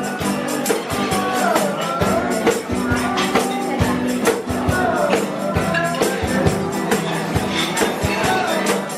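Live band playing, a singer over a steady percussion beat.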